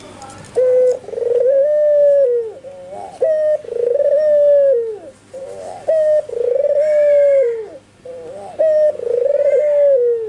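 A white albino puter (domestic Barbary dove) cooing four times. Each phrase is a short note followed by a longer held coo that falls away at the end, repeating about every two and a half to three seconds.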